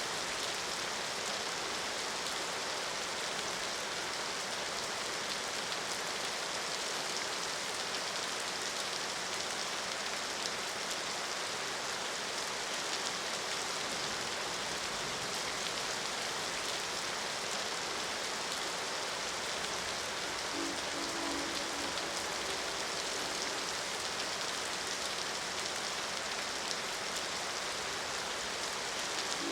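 Steady, even rainfall pattering on surfaces. A brief low horn note sounds about two-thirds of the way through.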